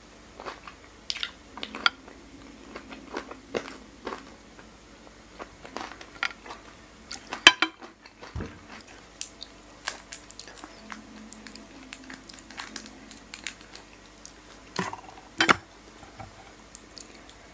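Chewing and biting a mouthful of soy-marinated raw salmon and noodles: irregular mouth clicks and smacks, loudest twice, about halfway through and near the end.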